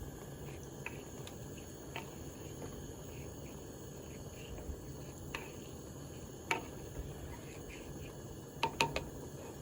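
A few light clinks of kitchenware, a quick cluster of them near the end, over a steady low hum with a faint high chirp repeating about twice a second.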